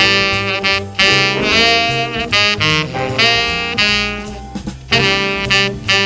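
Saxophone playing a jazz line in a run of held and moving notes with short breaks between phrases, over a backing of walking bass and drums.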